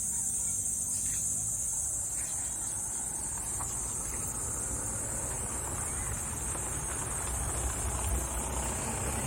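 Steady high-pitched drone of insects over the low rumble of a motor vehicle, which grows louder near the end.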